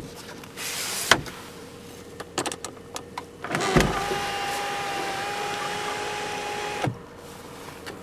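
Electric sunroof motor of a 1999 Volkswagen Passat B5 running, a steady whine that starts about four seconds in, lasts about three seconds and stops sharply. A few clicks and knocks come before it.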